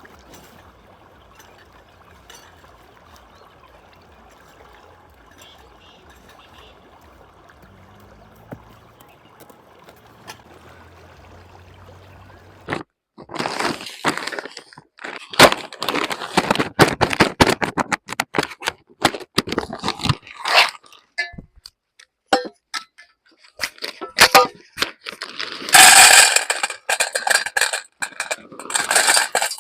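Faint steady background noise, then from about 13 seconds in a run of loud, irregular clinks, knocks and cracks of objects being handled.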